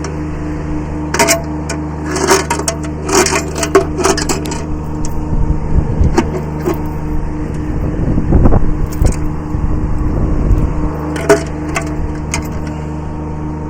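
Kubota B7100 subcompact tractor's diesel engine running steadily while it works, with clusters of sharp cracks and clanks about a second in and again near the end, and a heavier low rumble through the middle.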